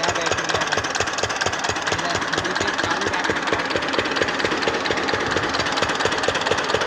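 Engine running steadily with a fast, even knocking beat, about six or seven knocks a second.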